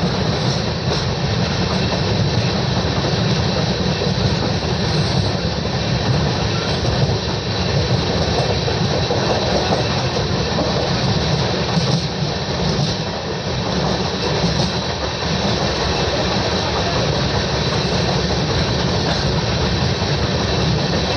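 Passenger train running on the line, heard from inside a sleeper-class coach: a steady rumble of wheels on rail with a few faint clicks.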